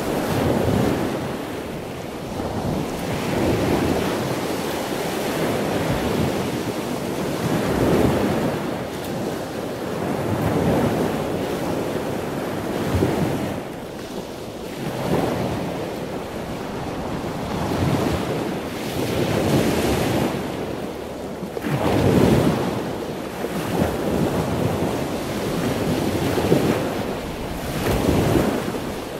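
Ocean surf: waves washing in, a rushing noise that swells and fades every two to three seconds.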